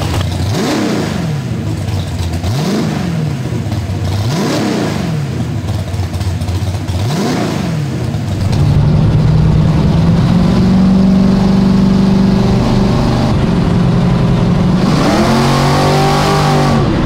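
Studebaker drag car's tunnel-rammed V8 with twin four-barrel carburetors and open headers, blipped four times, the pitch rising and falling with each rev. About halfway through it gets louder and runs at a steady speed, then revs up and back down near the end.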